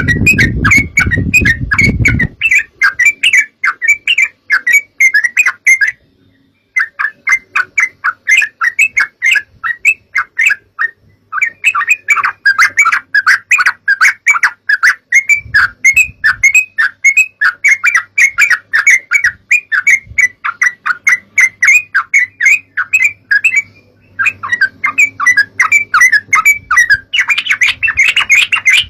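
Yellow-vented bulbul (trucukan) song: long runs of rapid, bubbly chirping notes, pausing briefly about six seconds in and again near the three-quarter mark. A low rumble sits under the song for the first two seconds.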